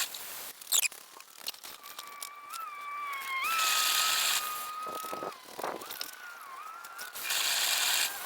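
Water sloshing in the chicken-scalding pot in short bursts, about a second each, with a thin wavering whistle-like tone in the middle stretch.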